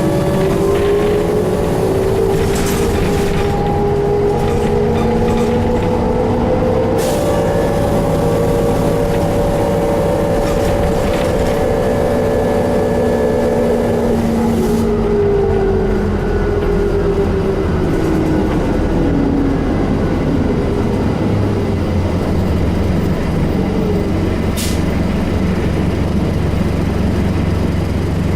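Cabin sound of a 2001 New Flyer D35LF transit bus under way. Its Detroit Diesel Series 50 engine drones steadily, and a drivetrain whine rises and then falls as the bus speeds up and slows. Four short sharp noises break in, which PANN files as air brakes.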